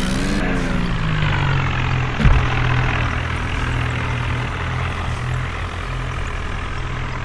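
Tractor engine running steadily under load, its pitch falling during the first second as the revs drop, with one short thump about two seconds in.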